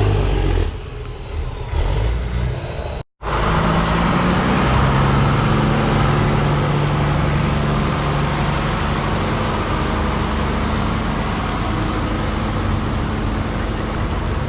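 A motor vehicle engine running steadily with a low hum. The sound drops out completely for a moment about three seconds in, where the recording is cut.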